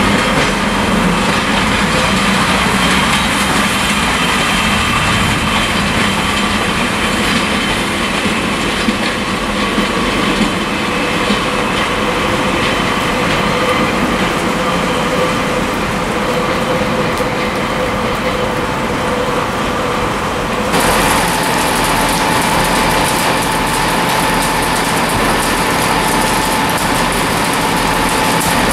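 Diesel multiple-unit trains moving through the station approaches, wheels clattering over the pointwork. After an abrupt change about 21 s in, a Class 158 diesel unit's engines run steadily at a platform.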